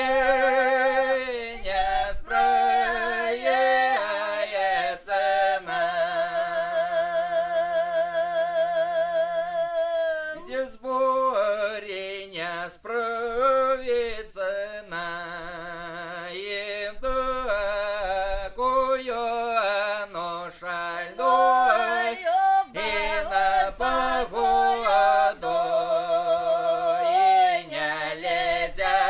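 Voices singing a Russian folk song, with long held notes sung with a wide vibrato.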